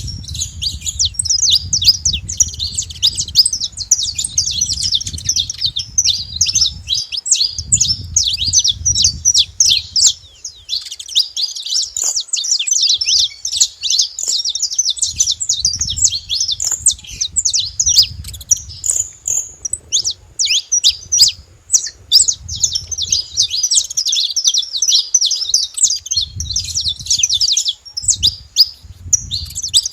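A flock of saffron finches chirping and calling at once, a dense, continuous chatter of many short overlapping notes.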